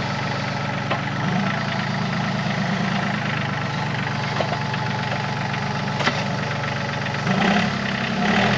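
Yanmar YT235C compact tractor's diesel engine running steadily, with a few light knocks; near the end the engine note briefly grows fuller and louder.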